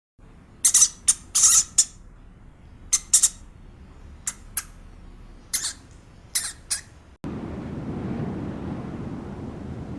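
A farm animal gives about a dozen short, shrill squawks or squeals in quick clusters. About seven seconds in they cut off abruptly and a steady rumbling noise like wind on the microphone takes over.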